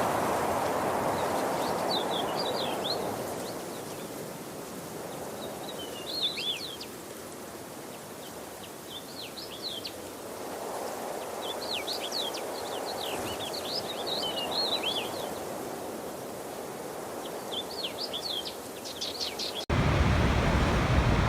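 Rushing water, swelling and easing, with small birds chirping in short bursts throughout. About twenty seconds in it cuts suddenly to a louder, deeper rush of water.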